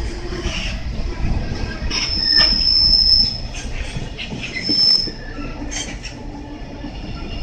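Freight container wagons rolling past under braking, their wheels rumbling and clanking on the rails. High-pitched brake squeals rise over it, one lasting about a second from about two seconds in and a shorter one about five seconds in.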